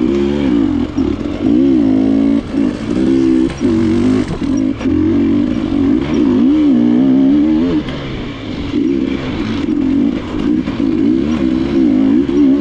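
KTM enduro motorcycle engine running under constant throttle changes on a trail, its pitch rising and falling every second or so, easing off briefly about two-thirds of the way through.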